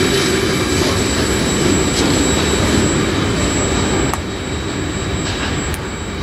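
Loaded ore hopper wagons rolling past on the rails, a steady rumble of wheels with a few light clicks. The rumble drops about four seconds in as the last wagon passes and the train draws away.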